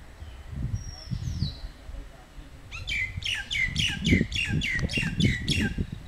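A bird sings a run of about ten quick notes, each sliding down in pitch, roughly three a second, starting a little under three seconds in; a couple of thin high whistles come about a second in. An irregular low rumble runs underneath.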